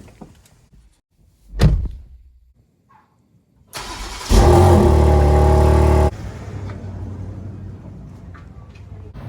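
A car door thumps shut. A few seconds later a car engine cranks and starts, runs loud and steady for about two seconds, then drops suddenly to a quieter steady idle.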